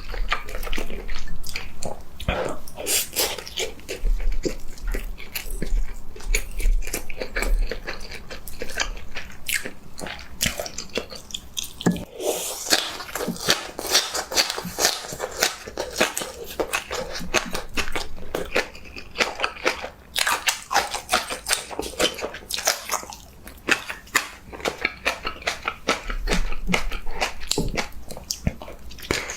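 A person biting and chewing crunchy food, with a dense run of sharp crunches throughout.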